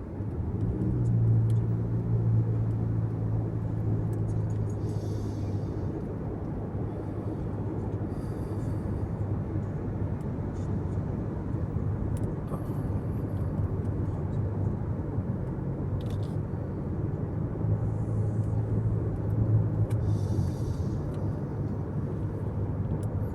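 Car driving, heard inside the cabin: a steady low road and engine rumble that swells a little about a second in and again near the end.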